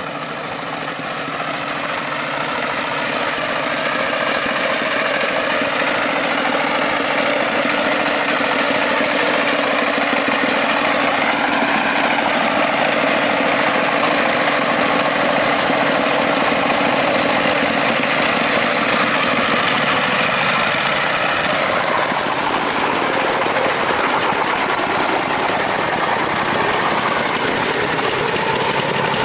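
A farm truck's engine running steadily, its pitch wavering slightly.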